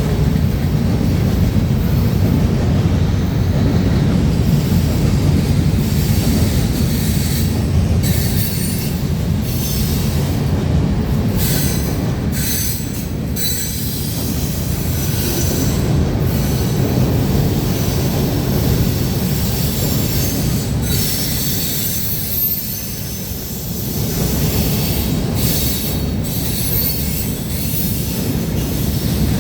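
Freight train cars rolling past close by: a steady, loud rumble of steel wheels on rail, with scattered clicks and patches of high-pitched hiss and wheel squeal.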